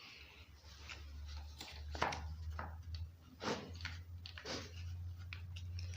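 A run of small plastic clicks and knocks as the chainsaw's switch is pressed and worked into its plastic housing to seat it, over a steady low hum.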